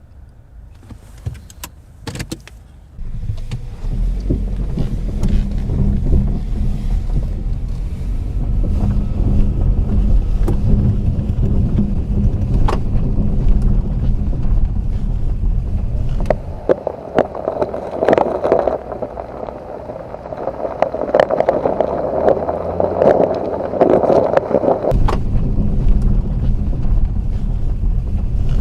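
Nissan Qashqai+2 driving over uneven road: a steady low tyre-and-suspension rumble that starts about three seconds in and shifts in character near the middle, with a few sharp ticks. No rattling or knocking from the front end, with new tie rod ends and steering shaft joints fitted.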